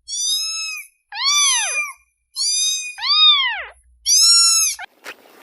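A series of five high-pitched animal calls, each under a second long. They alternate between level calls and calls that rise and then fall in pitch.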